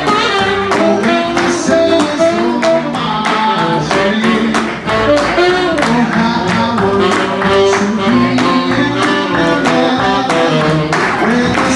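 Live New Orleans-style jazz band playing an upbeat number with a steady beat and melody instruments.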